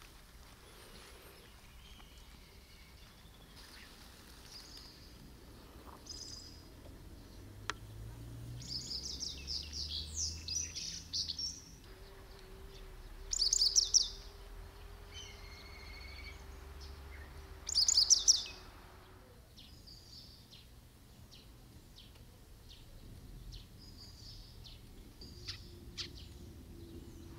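A songbird calling outdoors: scattered high chirps, with two loud, rapid trills about 13 and 18 seconds in.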